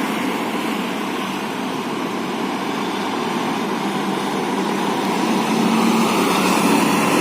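Road traffic: vehicle engines and tyre noise running steadily, growing louder from about five seconds in as a vehicle comes closer.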